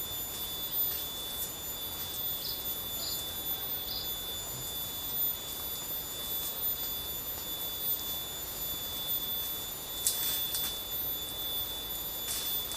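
Forest ambience: insects droning in steady high tones over a soft even hiss, with three short chirps a few seconds in and two sharp cracks near the end.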